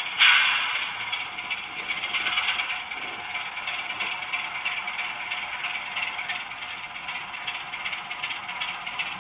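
OO gauge model train running on the layout track, a steady rattling clatter of wheels and mechanism, with a sudden louder burst just after the start that fades within about half a second.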